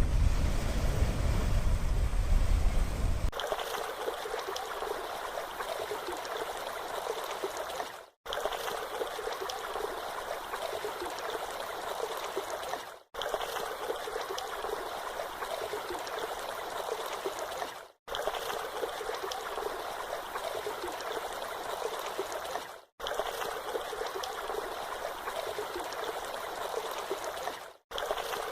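Wind buffeting the microphone for the first three seconds, then a steady rush of flowing water, broken by brief gaps about every five seconds.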